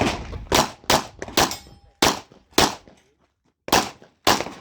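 Pistol shots fired in quick strings during a USPSA stage: about eight shots roughly half a second apart, with a pause of about a second after the sixth before two more.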